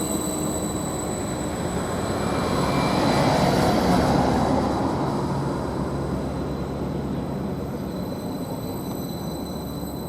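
Class 755 bi-mode multiple unit running on its diesel engines as it draws into the station. The rumble swells to its loudest about three to four seconds in, then slowly fades, with a steady hum underneath.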